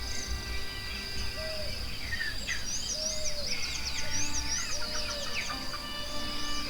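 Forest birdsong: many chirps and quick up-and-down whistled calls over a steady high insect-like buzz, with soft background music of held notes underneath.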